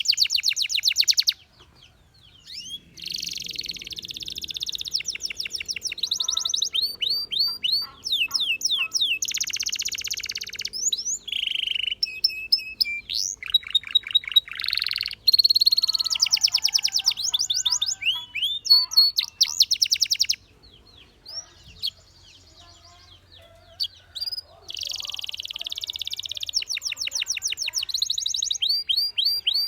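Canary singing: long rapid trills and rolls of high repeated notes, some rising and falling, broken by two short pauses, one near the start and one about two-thirds of the way through.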